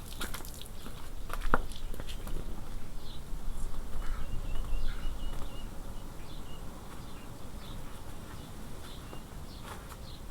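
Small birds chirping in short calls, with a brief warbling phrase in the middle, over a low background rumble and a few sharp clicks, the loudest about one and a half seconds in.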